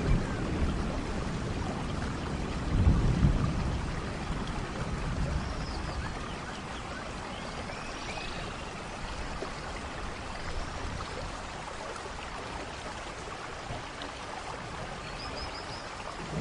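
Steady rain falling in a forest, an even hiss of drops, with a low rumble about three seconds in.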